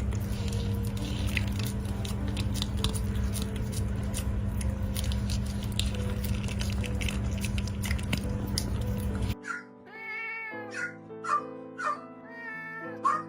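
A steady low hum with many small clicks, then a sudden cut to background music over which a cat meows several times in short, sharp calls.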